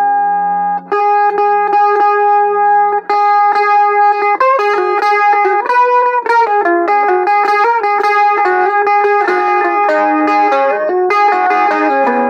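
Harmony electric mandolin being played: a melody of held notes sounded by fast repeated picking, the pitch moving to new notes several times.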